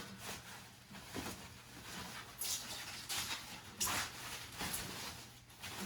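Packaging wrap rustling and crinkling in several short bursts as it is pulled and worked off a guitar.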